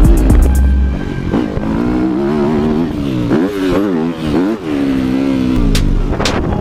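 Motocross bike engine revving, its pitch climbing and dropping again several times as the throttle is worked.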